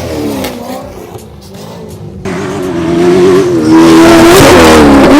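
Truck engine revving hard, getting much louder about two seconds in and held at full throttle to near the end.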